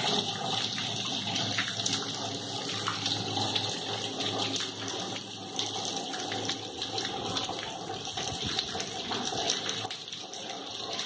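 Heavy rain falling steadily on a cobbled street, a continuous hiss of rain and running water.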